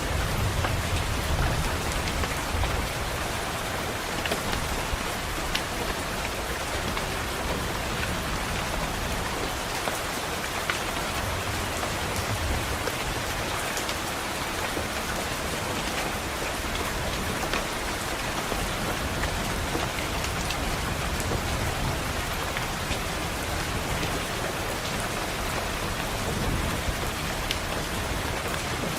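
Steady rain with drops tapping sharply against a window. A low rumble swells under it near the start and again near the end.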